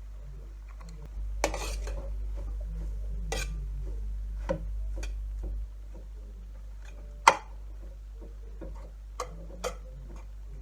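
A cooking utensil clinking and knocking against cookware in irregular strikes, the sharpest about seven seconds in, over a low steady hum.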